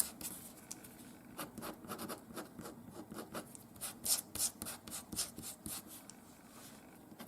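Paint being rubbed and smooshed around with quick, irregular scratchy strokes that thin out near the end.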